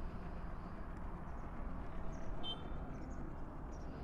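Faint, steady low rumble of outdoor background noise, with a short high chirp about two and a half seconds in.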